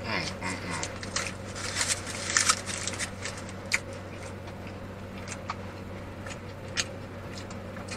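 A man chewing a mouthful of bacon cheeseburger, with wet smacking and clicking mouth noises. They are dense for the first few seconds and thin to occasional ticks later. A steady low hum runs underneath.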